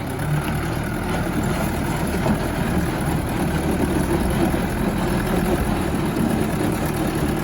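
Truck engine running steadily at low revs, a continuous low rumble.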